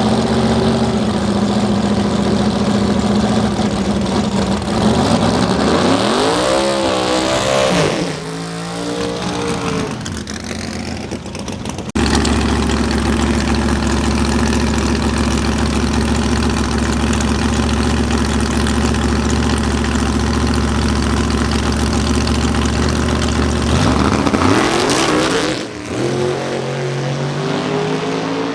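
Drag-race car engines held at steady high revs, then rising in pitch as the cars accelerate away. This happens twice, with abrupt changes in the sound in between.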